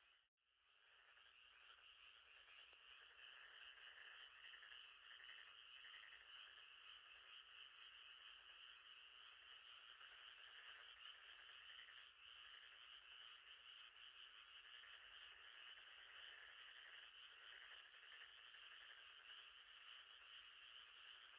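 Faint, steady night-time chorus of frogs trilling by a lake. The sound cuts out briefly just after the start, then fades back in.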